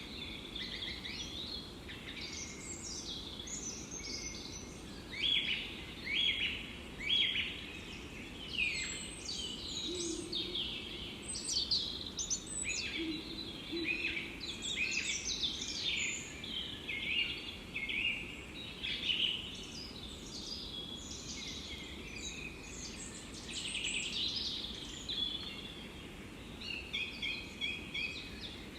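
Forest birds chirping and singing, many short calls and trills overlapping one after another, over a steady low background noise.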